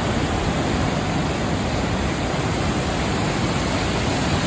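Steady, loud rushing of fast-flowing water, an even noise with no breaks, like runoff or a swollen stream after heavy monsoon rain.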